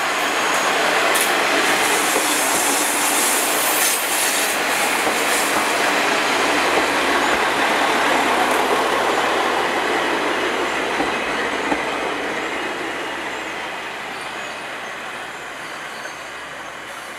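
A KiHa 40-series diesel railcar running close past along the track, its wheels rumbling over the rails. The noise is loud for the first ten seconds or so, then eases away.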